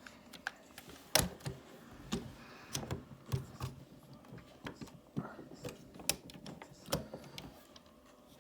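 Hard plastic parts of a transforming robot toy being handled and pressed together in vehicle mode: irregular clicks and light knocks, the loudest about a second in.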